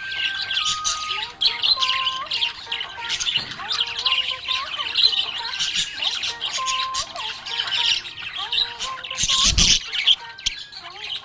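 Budgerigars chirping and chattering in quick, continuous high twitters, over a simple background melody. Near the end there is one brief, loud burst of noise.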